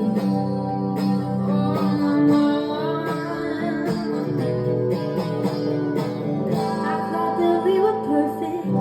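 Instrumental break in a sung ballad: a guitar strumming sustained chords.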